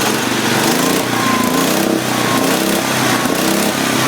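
1972 IH Cub Cadet 128 garden tractor's single-cylinder engine, warmed up and revved above idle, running steadily at raised speed with its pitch wavering slightly.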